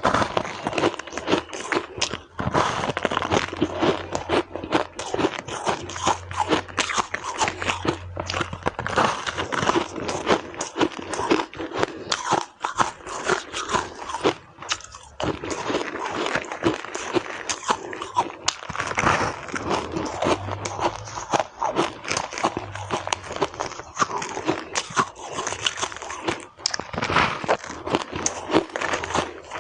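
Close-up crunching of shaved ice being bitten and chewed: dense, rapid, irregular crackles with no pause.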